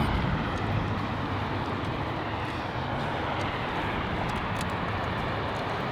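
Steady vehicle noise: a continuous rumble and hiss of traffic with no distinct events.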